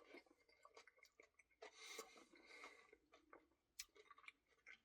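Near silence, with faint mouth clicks and soft chewing of ice cream, and a few small ticks.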